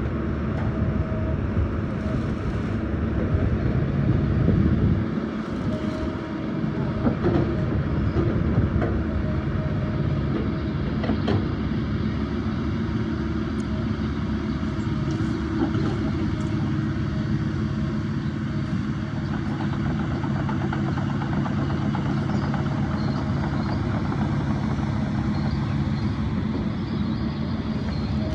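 Diesel engines of heavy earthmoving machinery running steadily, with a few sharp knocks in the first half.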